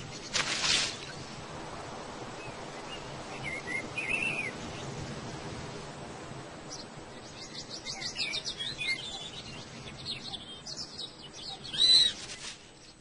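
Birds calling in short chirps, with a brief rustle about half a second in and a quicker run of high arched calls over the last few seconds.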